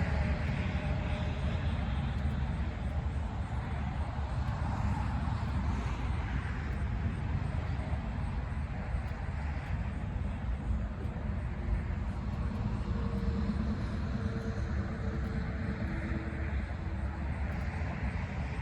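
Steady low outdoor rumble, like distant traffic or a passing engine, with no clear single source. A faint steady hum comes in about two thirds of the way through and fades a few seconds later.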